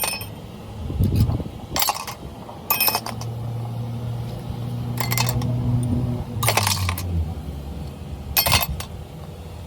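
Sharp metallic clinks of steel tools and parts striking one another, about six scattered strikes with a short ring, over a low steady machine hum that fades near the end.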